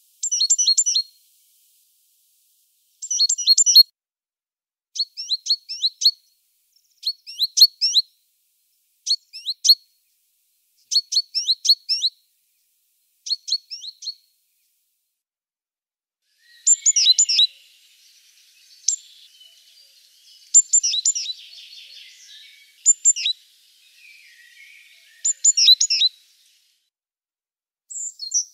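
Bird song: short phrases of quick, high, falling chirps, repeated about every two seconds, then less regularly over a faint hiss in the second half.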